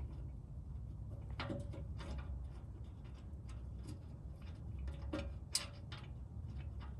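Scattered light clicks and clinks of exhaust parts and hardware being handled while a test pipe is fitted, a few with a brief metallic ring, over a steady low hum.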